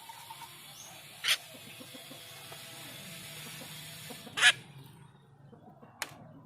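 Jalak rio rio, a kept starling, giving three short, sharp calls, about a second in, at four and a half seconds (the loudest), and near the end, over a steady hiss that stops about five seconds in.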